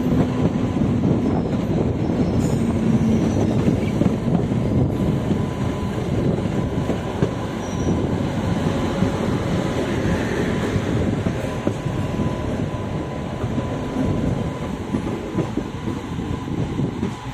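Indian Railways passenger coach running on the track, heard from its open door: a steady rumble and rattle of wheels on rail, with a thin steady wheel squeal through the middle and later part. The noise drops away suddenly just before the end.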